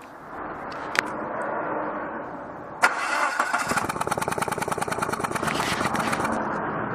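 2000 Mazda Protege 1.6 four-cylinder engine cranked and started with the number 2 spark plug removed, to blow a broken ground electrode out of the open plug hole. A sharp crack comes nearly three seconds in, then a fast run of loud, even pops from the open cylinder.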